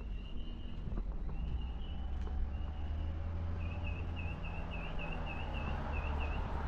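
A small bird calling repeatedly in high, thin notes: short held notes about once a second, then a quick run of wavy chirps about four a second from about halfway. Beneath it is a low rumble of traffic and wind that grows louder.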